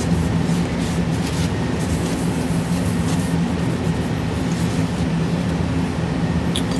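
Steady machine whir with a low hum, with a few faint rubbing strokes in the first couple of seconds.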